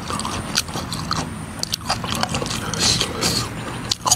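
A person chewing a mouthful of food close to the microphone: irregular wet smacks and clicks of the mouth.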